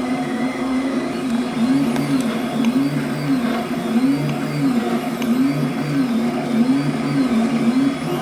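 Flux 3D printer's stepper motors whining as the axes move. The pitch holds steady, then, after about a second and a half, sweeps up and down over and over, roughly once a second, as the motors speed up and slow down.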